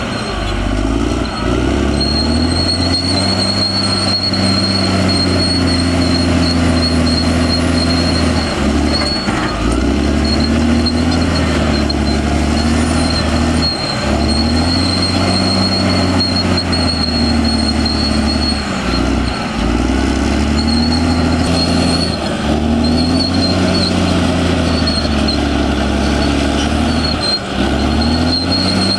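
Caterpillar D6R XL crawler bulldozer's diesel engine working under changing load, its pitch dipping and recovering every few seconds, with a steady high-pitched whine.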